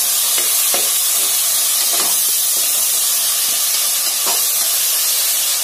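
Chopped tomatoes sizzling steadily in hot oil in a pressure cooker pan as they are stirred with a metal spatula, with a few soft scrapes. The tomatoes are being fried down until they break into a paste.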